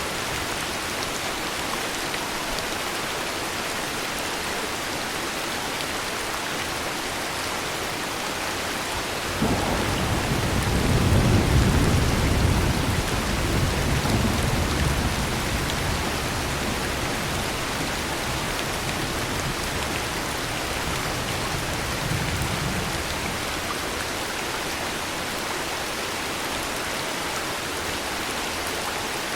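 Steady heavy rain with a roll of thunder: the thunder comes in suddenly about a third of the way through, rumbles low for several seconds and dies away, with a smaller rumble later under the continuing rain.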